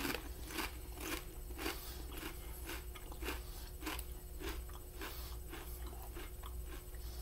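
Crunchy potato chips being chewed close to the microphone, a crisp crunch about twice a second, over a faint steady hum.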